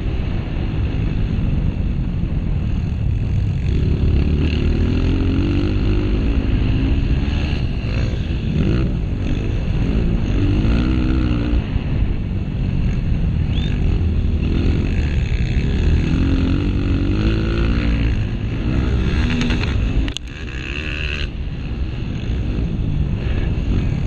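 Honda CRF230F's single-cylinder four-stroke engine revving up and falling back again and again under hard riding, over wind noise. Around twenty seconds in the throttle closes briefly, then it pulls again.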